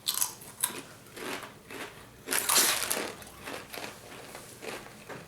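Crunchy rolled tortilla chips (Takis) being bitten and chewed: irregular crisp crunches, with a longer, louder crackle about two and a half seconds in.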